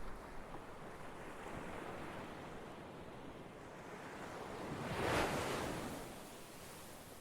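Ocean surf: a steady wash of waves, with one wave swelling and breaking loudest about five seconds in, then subsiding.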